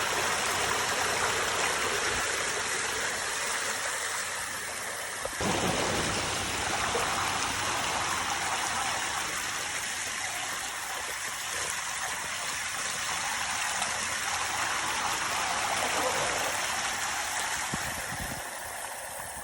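Rainwater flowing in a steady rush, like a running stream. The sound shifts abruptly about five seconds in.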